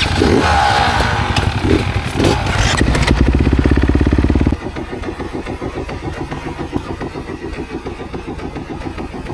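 Kawasaki KX250X single-cylinder four-stroke dirt bike engine revving loudly with the throttle opening and closing, then about four and a half seconds in dropping suddenly to a quieter, steady running note.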